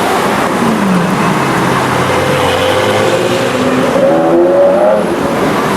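Sports car engines revving and accelerating: the pitch drops about a second in and climbs again near the end.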